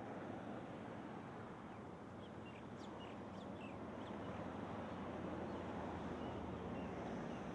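Steady outdoor background noise with a few short, high bird chirps, clustered in the middle and again near the end.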